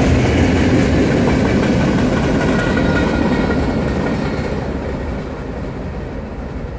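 Boxcars of a Norfolk Southern mixed freight train rolling past on steel wheels. The sound fades steadily from about three seconds in as the end of the train moves away.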